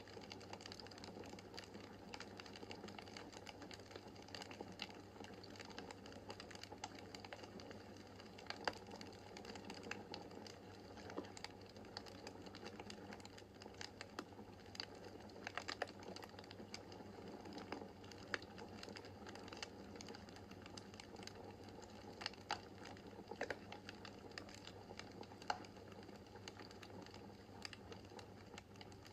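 Wood fire crackling in a fireplace: a faint, steady rush of flames with irregular sharp pops and snaps of burning logs, a few of them louder.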